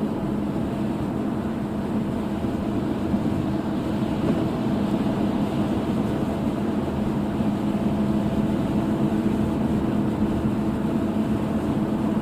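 Steady car interior drone while driving in the rain: a low road and engine hum under the hiss of rain.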